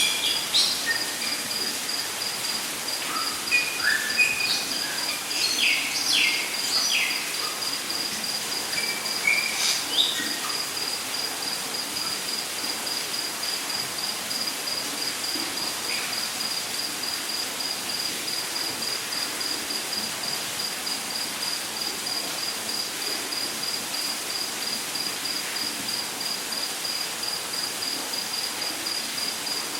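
Rainforest ambience: an insect trills steadily in fast, even high-pitched pulses over a constant hiss. Birds call in short chirps and whistles during the first ten seconds, then fall quiet.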